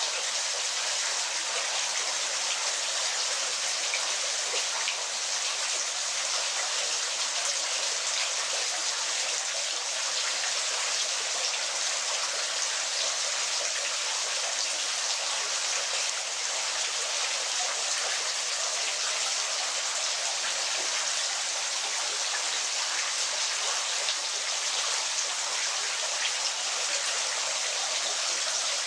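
Waterfall: a steady, even rush of falling water with a fine patter of splashing drops and little low rumble.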